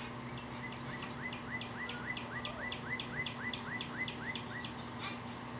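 A bird singing a rapid series of about fifteen repeated chirping notes, roughly three a second, over a steady low hum.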